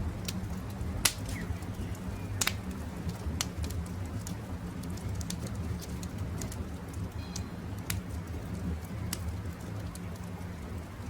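Wood campfire crackling, with irregular sharp pops over a low steady rumble; the loudest pops come about one and two and a half seconds in. A faint bird chirps briefly in the background.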